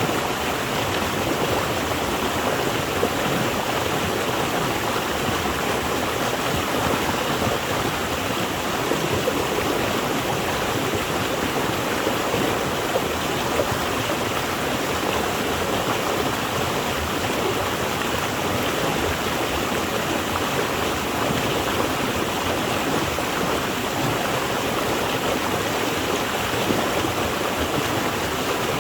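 Water flowing steadily over rocks in a stream or small waterfall: an even, unbroken rushing.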